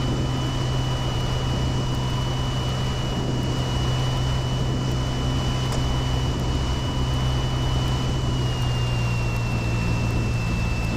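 Piper PA-28 Warrior II's piston engine running steadily, heard inside the cabin as a low drone. A thin high whine runs alongside and drops slightly in pitch about eight seconds in.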